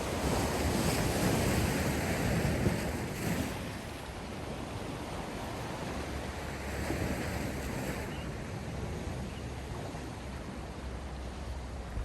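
Sea waves breaking and washing ashore, with wind rumbling on the microphone. One louder wave surges in the first few seconds and a smaller one follows about seven seconds in.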